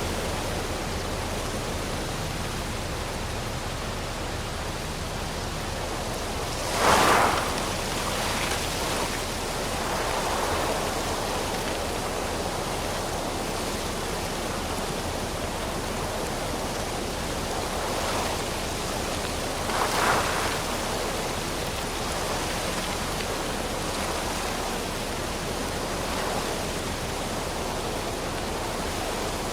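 Wind blowing through trees, a steady rushing of leaves and branches that swells in short gusts, the strongest about seven seconds in and again around twenty seconds.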